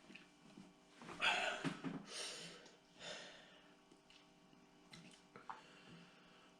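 A person breathing hard through the mouth: several short, noisy breaths in the first half, then quieter. This is the heavy breathing of someone feeling the burn of very spicy noodles.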